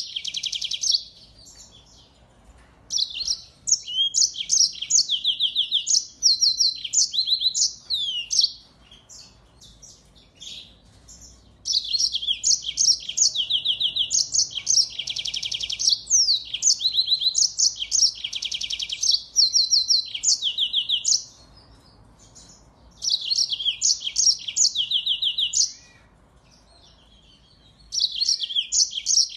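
Small finch singing high-pitched bouts of fast, repeated trilled notes and short whistles, with pauses of a second or more between bouts.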